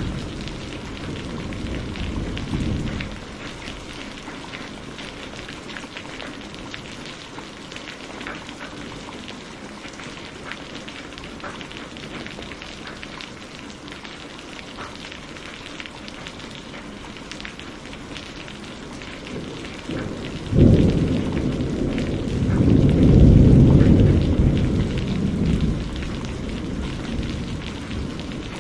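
Steady rain falling, with many small drops ticking on surfaces. A low thunder rumble dies away in the first three seconds; about twenty seconds in a sudden thunderclap breaks, followed by a long deep rumble that swells and fades over the next five seconds.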